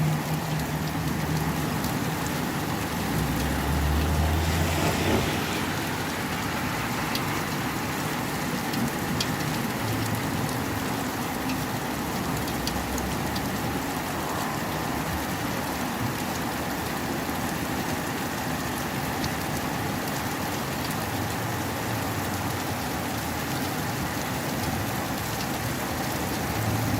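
Steady rain falling, with scattered drops ticking on hard surfaces. A low rumble comes in briefly about four seconds in.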